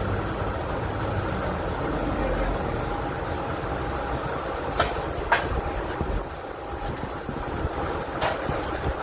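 VEVOR MIG-130 welder being test-welded: a steady crackling arc, with a few sharper pops about five and eight seconds in.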